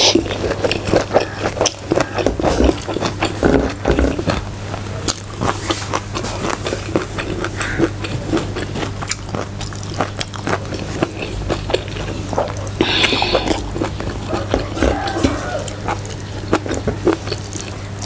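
Close-miked chewing and lip-smacking of a mouthful of rice and vegetables eaten by hand, with many small wet clicks. A steady low hum runs underneath.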